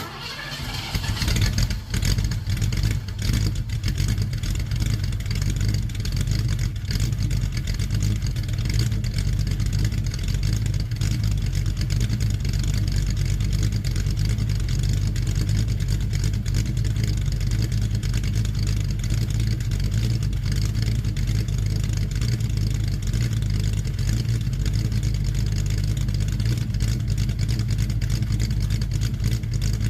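1970 Ford Mustang's 302 V8 starting from cold: it fires at once, flares up over the first two seconds, then settles into a steady, even idle.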